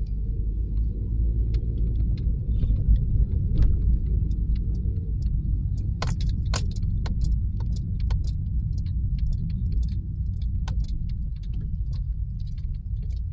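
Inside a moving car: a steady low rumble of engine and road noise. Light clicks and rattles come throughout, with a few sharper ones about six seconds in.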